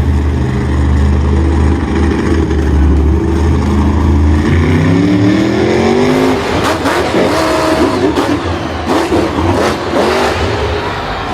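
Vehicle engine running and revving. Its pitch climbs about halfway through, then several engine tones waver up and down.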